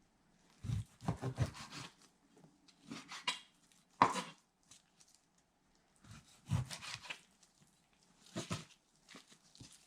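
Kitchen knife cutting raw chicken breast into cubes on a cutting board: irregular groups of slicing strokes, with a sharper chop against the board about four seconds in.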